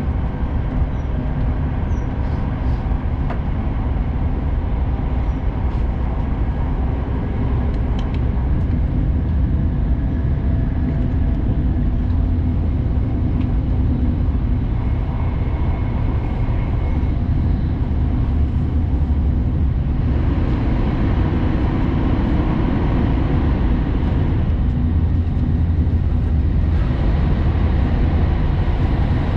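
Hayabusa Shinkansen running at speed, heard from inside the passenger car: a steady low rumble of wheels and running gear with faint steady tones, the noise changing in character about two-thirds of the way through.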